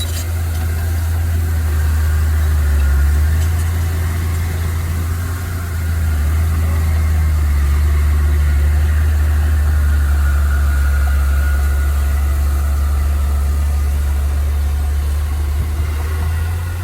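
Heavy machine engine running steadily with a deep, low drone, easing off briefly about five seconds in and then picking up again.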